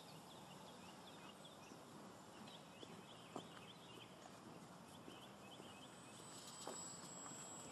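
Near silence with faint outdoor ambience: small birds chirping many times in quick short notes, with a couple of faint clicks.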